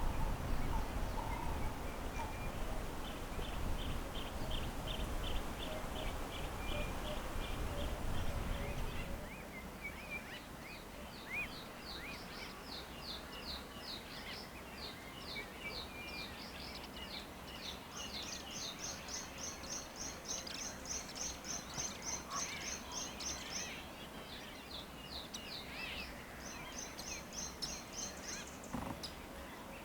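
Wild birds calling in quick series of high, evenly repeated notes, some slurring downward and some in fast high trills. For the first nine seconds a low rumble runs underneath, then stops.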